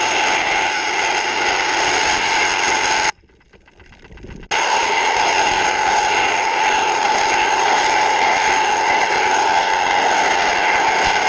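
Steady mechanical drone with a constant hum. About three seconds in it cuts out abruptly to a faint background for a second and a half, then comes back just as suddenly.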